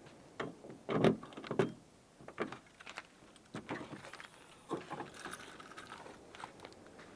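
A series of irregular knocks and clinks, like objects being handled and set down, the loudest two close together about a second in.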